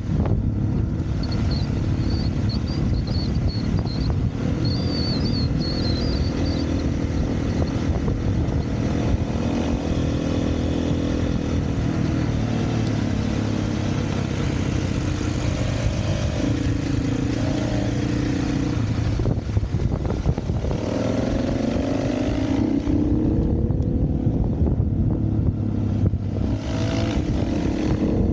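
Dirt bike engine running under way on a trail, its revs rising and falling as the throttle is worked. The revs climb clearly a little past two-thirds of the way through and again near the end.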